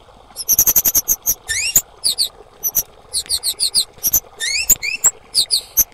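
A female kemade calling in quick runs of sharp, very high chip notes, mixed with several quick rising sweeps; brief pauses separate the runs.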